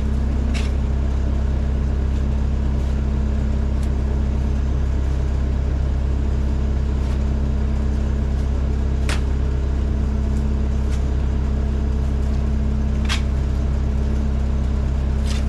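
Farm machine's engine running steadily at a constant speed, with a few short, sharp knocks or scrapes over it.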